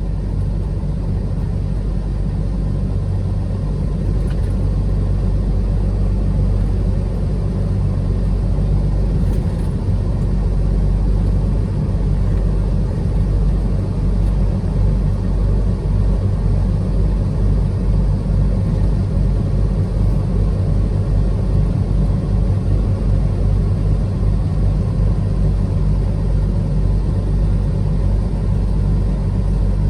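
A truck being driven: steady low engine and road rumble.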